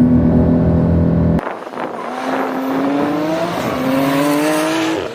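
High-performance sports car engine under hard acceleration in a drag race: it holds steady revs for about a second and a half, then after a sudden change the pitch climbs, drops at an upshift about two-thirds of the way in, and climbs again.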